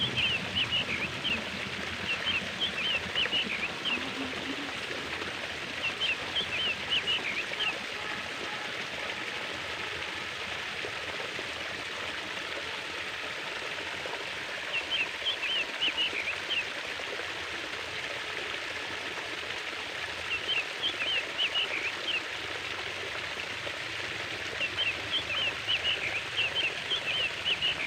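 Flowing water running steadily, with small birds chirping in short runs of quick high notes every few seconds.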